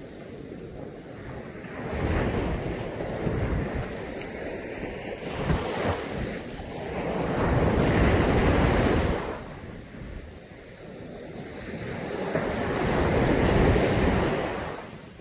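Caribbean Sea waves breaking on a beach: surf washing in three times, each swell building and fading over a few seconds, with wind on the microphone.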